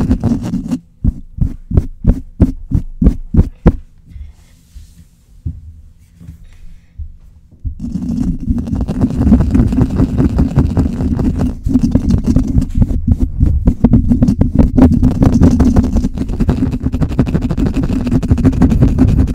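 Fast, hard scratching directly on a microphone, heard as deep muffled rubbing. About a second in it breaks into separate strokes, roughly three or four a second. It then goes quiet for a few seconds and comes back as dense, rapid scratching about eight seconds in.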